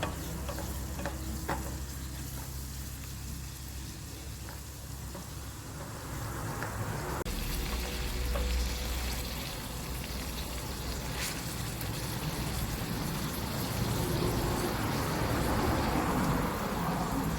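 Food frying in a pan over a wood fire: a continuous sizzle with scattered clicks and crackles. The sound changes abruptly about seven seconds in, becoming a fuller, hissier sizzle.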